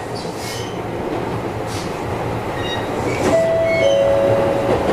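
Yokohama Minatomirai Railway Y000 series electric train running along the track, with a steady rumble of wheels on rail. A little over three seconds in, two steady tones, one slightly lower than the other, sound together for about a second.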